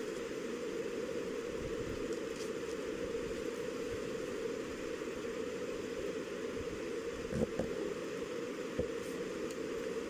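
Steady background noise, an even hiss and hum. Two faint short taps come about seven and a half and nine seconds in.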